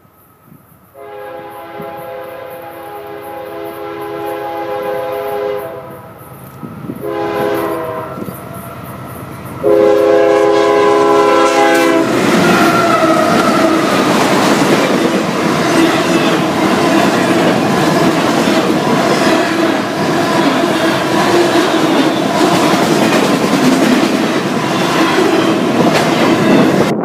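Diesel freight locomotive's multi-chime air horn blowing a long blast, a short one and another long one. About twelve seconds in the locomotive passes at close range, and the loud, steady rumble of the engine and the train's wheels on the rails runs on.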